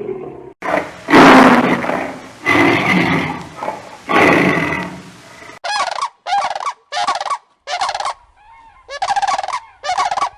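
A run of animal calls: three long, rough calls, then five short rattling calls in quick succession.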